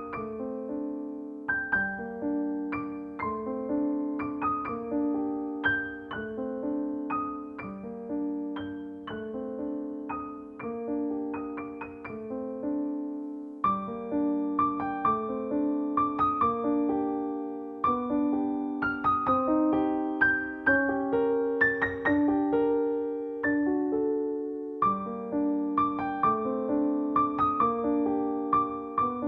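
Solo piano playing a slow, gentle piece: soft chords and a simple melody, each note struck and left to fade.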